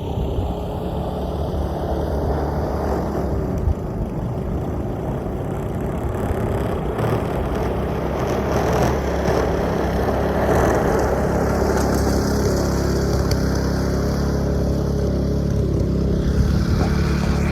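An engine running steadily, a low hum with a rushing noise over it that swells a little in the middle.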